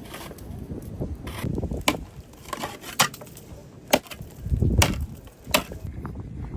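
A series of sharp knocks, four of them about a second apart, over a low rumble, with a longer dull thud in the middle.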